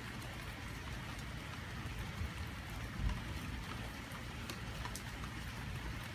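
Steady rain falling on a wet painted wooden deck, with scattered clicks of single drops over a low rumble. A brief low thump comes about three seconds in.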